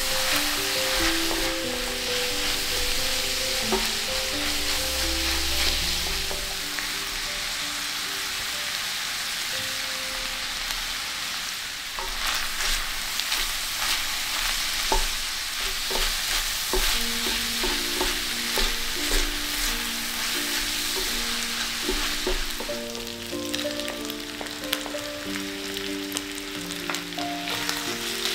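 Ground beef, onion, carrot and shimeji mushrooms sizzling in a cast-iron skillet, stirred and scraped with a wooden spatula, with short scraping ticks over a steady frying hiss.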